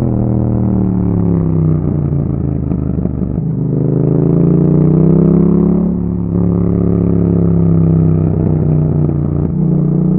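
2021 Yamaha MT-07's parallel-twin engine running through an Akrapovic exhaust while riding: the engine note falls off, rises under throttle from about three and a half seconds in, breaks briefly about six seconds in, then falls away again before picking up near the end.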